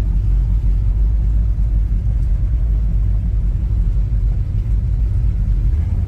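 Steady low rumble of a truck on the move: engine and road noise.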